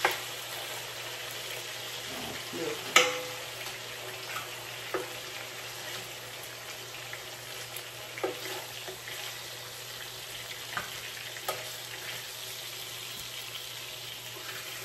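Hamburger steak patties sizzling steadily as they fry in oil in a skillet, with a few sharp clicks over the top, the loudest about three seconds in.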